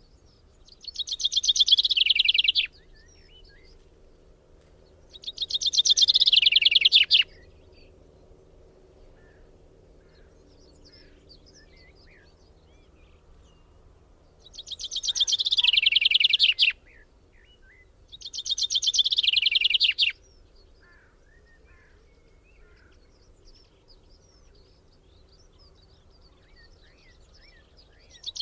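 A songbird singing a fast trill of rapidly repeated notes that falls in pitch and grows louder, each song about two seconds long, four times at intervals of a few seconds. Faint chirps of other birds come between the songs.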